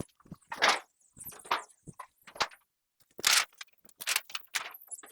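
Irregular rustles, scrapes and light knocks of brooder-guard materials being handled and set in place, about a dozen short strokes with a gap a little before the middle.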